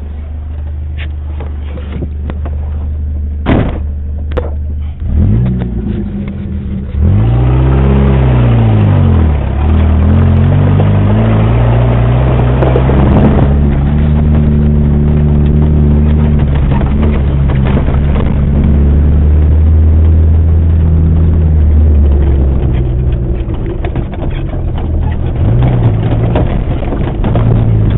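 Off-road 4x4's engine running low, with two sharp knocks about four seconds in, then pulling away about seven seconds in: the revs rise and fall a few times before settling into a steady drive under load.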